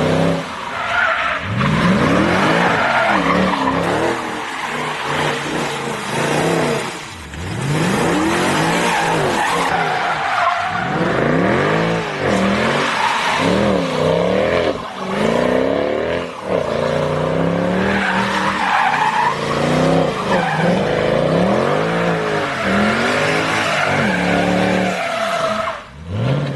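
Mercedes C63 AMG's V8 revving up and dropping back again and again, loud through the exhaust, as the car slides on a wet road with the stability control off. Tyres skid and squeal on the wet tarmac.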